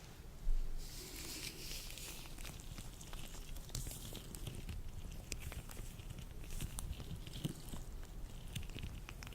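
Latex gloves handled close to the microphone: rubbing and stretching, with many small crackles, snaps and swishes, and a short bump about half a second in.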